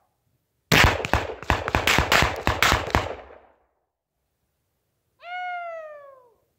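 A rapid string of about a dozen AR-15 rifle shots (5.56 ammunition) over about two seconds, fired about 250 yards off. Near the end, a cat meows once, a long falling call.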